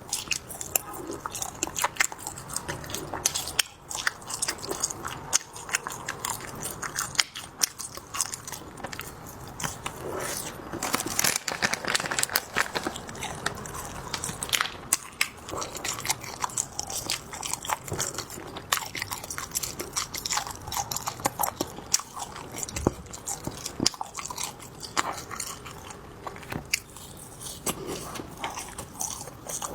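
Close-miked eating sounds of spicy skewers: steady wet chewing with frequent sharp crunches and clicks, irregular throughout.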